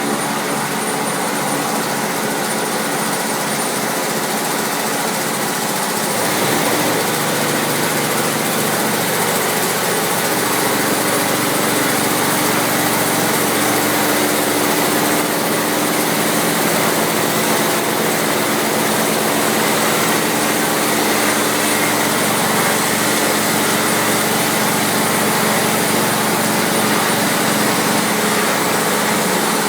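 Electric log-rounding machine running with a steady mechanical whine and hum, growing louder, with more steady tones, about six seconds in.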